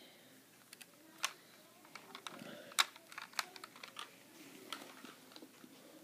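Light, irregular clicks and taps of plastic model railway coaches and track being handled, a few sharper knocks among them.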